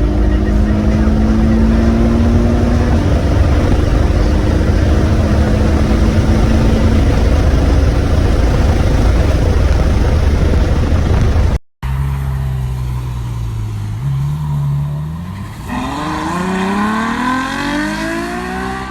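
Ferrari GTC4Lusso's 6.3-litre naturally aspirated V12 running at speed, with steady engine tones under heavy road and wind rumble. After a cut about two-thirds in, the V12 is at lower revs, then accelerates hard and its pitch climbs steadily.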